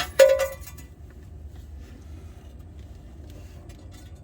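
A sharp metallic clank with a brief ringing decay, metal striking metal about a quarter second in, followed by a low steady hum.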